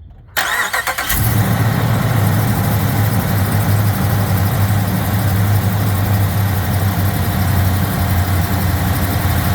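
Pickup truck engine cranked by its starter for under a second, then catching and settling into a steady idle.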